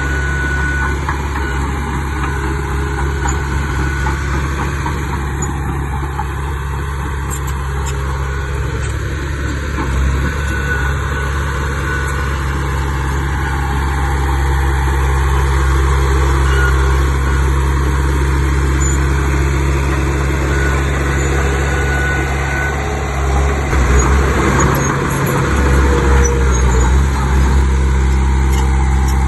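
Diesel engine of a Komatsu D31 crawler bulldozer running steadily at work, growing louder and rougher for a few seconds near the end.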